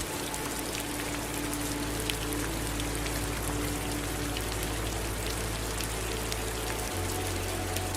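Steady rain falling, a constant hiss with individual drops pattering. A low steady hum lies underneath and shifts in pitch about a second before the end.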